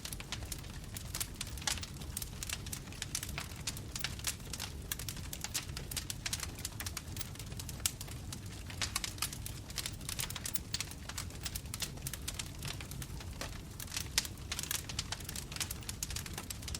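Bonfire crackling: dense, irregular snaps and pops from burning wood over a steady low rumble of the flames.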